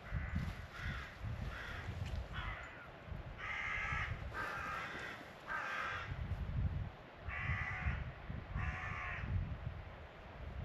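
A bird calling over and over, about nine short calls, each under a second long, over a low rumble.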